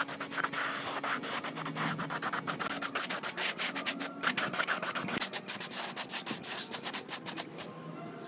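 Rapid, even rubbing strokes of an abrasive against a hard surface, as in sanding a part by hand, several strokes a second, thinning out near the end.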